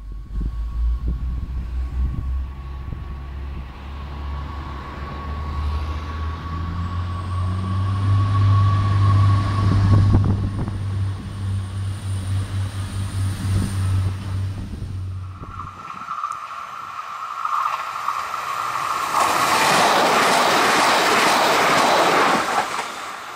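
A Bombardier AGC regional multiple unit running through a station and passing close by, with a low drone and a steady whine that grow loudest as it goes past. After an abrupt change about two thirds of the way in, a loud steady rushing noise swells for several seconds.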